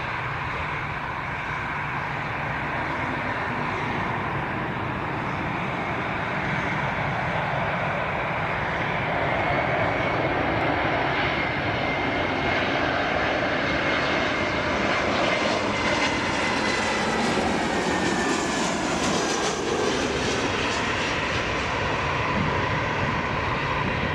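Airliner's engines passing close on approach to land: a steady rush that swells, with a high whine that holds and then slides down in pitch as the aircraft goes by.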